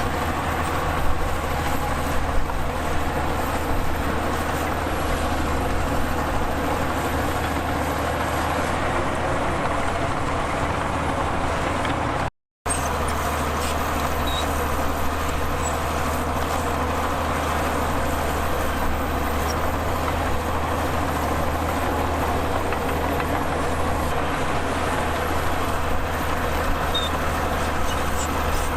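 Heavy diesel earthmoving machinery running steadily, with a constant low engine drone. The sound cuts out for an instant about twelve seconds in.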